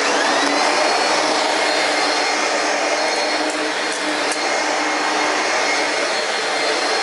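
Late-1980s/1990s Singer upright vacuum cleaner built by Ryobi, with twin motor fans, switched on after about three years unused: it spins up with a rising whine over the first second, then runs steadily and really, really loud.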